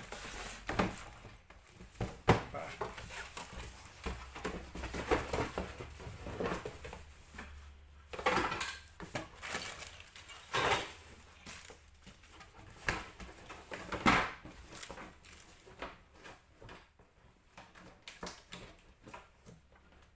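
Plastic Sylvanian Families toy pieces and furniture clattering and knocking irregularly as they are handled and packed away, with some rustling.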